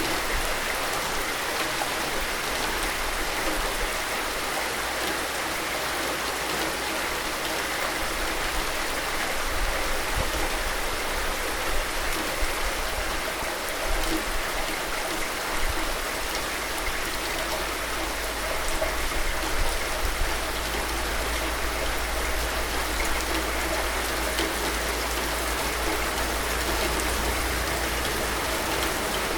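Steady heavy rain: a dense, even hiss of falling drops with a low rumble underneath.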